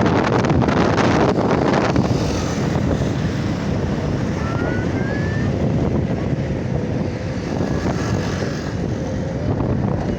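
Wind buffeting the microphone over steady road and motorcycle noise while riding in traffic. The gusting is heaviest for the first couple of seconds, then eases to a steadier rumble.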